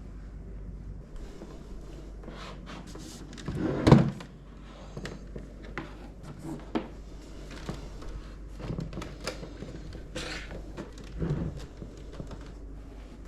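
Scattered clicks and light knocks from computer parts and the PC case being handled, with one heavier thunk about four seconds in.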